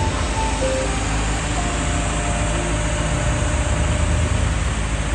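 The last notes of an ice cream truck's chime melody fade out in the first second, leaving a steady vehicle engine and road noise.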